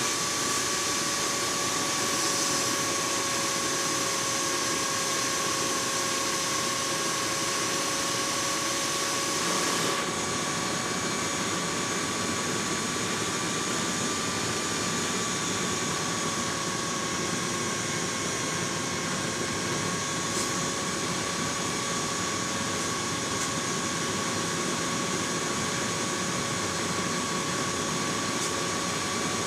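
A steady mechanical whine holding two tones over an even hiss, heard as jet-engine-like, with the treble easing slightly about ten seconds in.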